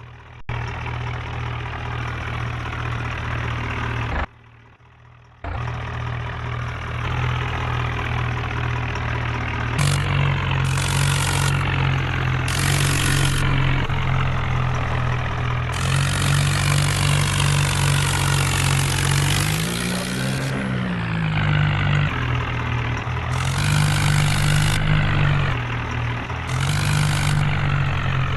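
Heavy diesel tractor engine running steadily. It drops out for about a second, four seconds in, and its pitch dips and rises again about two-thirds of the way through.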